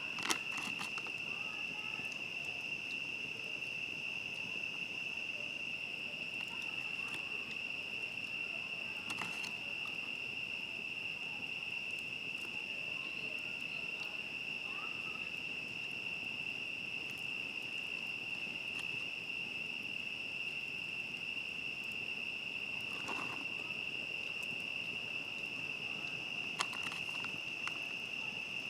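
Steady, unbroken high-pitched chorus of night crickets, with a few sharp crackles and pops from a wood campfire, the loudest near the start and near the end.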